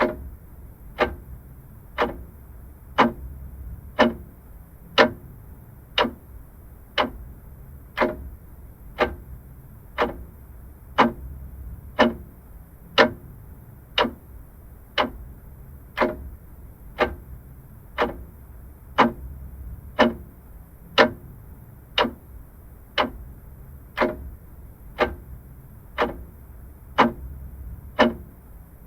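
Vintage mechanical clock ticking steadily, about one sharp tick a second, over a faint low hum.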